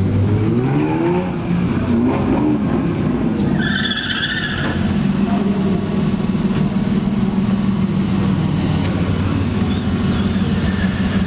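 Modified drift-car engines: revved up in quick rising blips, then settling to a deep steady idle. A short high squeal comes about four seconds in.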